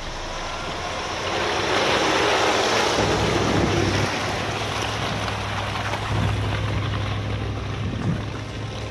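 Wind rushing over the microphone, swelling loud about a second and a half in, over a 4x4's engine running with a steady low drone.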